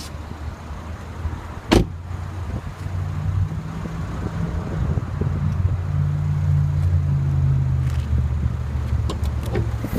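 The 3.5-litre direct-injection V6 of a 2014 Mercedes-Benz ML350 idling with a steady low hum. A single sharp click comes a little under two seconds in, and a few lighter clicks come near the end.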